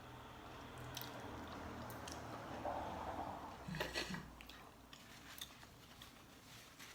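A person chewing soft, tender chicken feet: quiet, wet chewing and mouth sounds, with a few sharp clicks about four seconds in.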